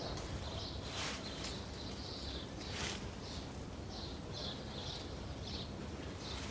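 Small birds singing: a run of short high notes repeating every fraction of a second, with two brief rustles about one and three seconds in.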